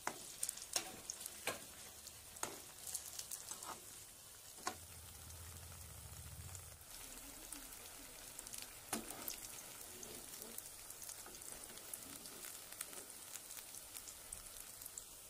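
Moong-dal-coated brinjal slices shallow-frying in oil, a steady sizzle and crackle, with scattered sharp taps from a slotted spatula working in the pan as the slices are turned and lifted out.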